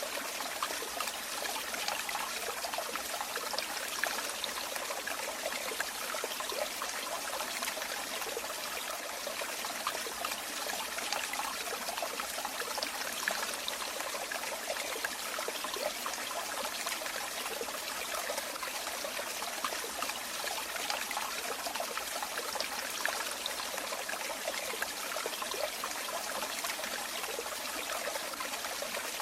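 Running water flowing and trickling steadily: an even hiss full of small splashes, with little deep rumble.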